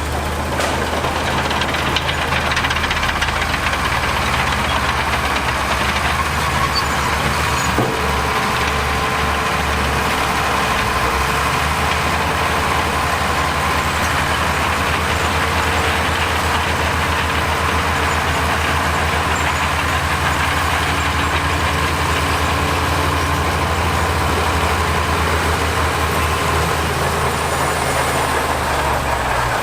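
Heavy construction machine's diesel engine running steadily under work, with a low, even pulsing throughout and a single knock about eight seconds in.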